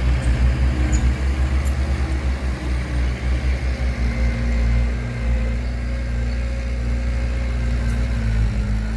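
Heavy diesel engine of earthmoving machinery running, its low rumble uneven at first and then settling steadier, with a faint whine from about four seconds in.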